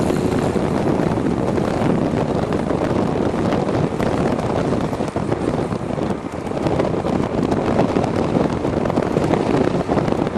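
Wind buffeting the microphone of a camera on a moving e-bike: a steady, loud rumble and rush with no distinct tones.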